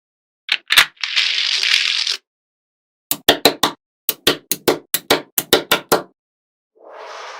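A run of sharp, evenly spaced clicks or knocks, about three a second, with a short hissing burst about a second in and a fainter hiss near the end.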